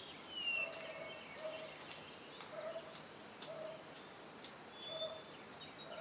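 Quiet garden ambience with faint birds: a few short high chirps and a low call repeating about once a second.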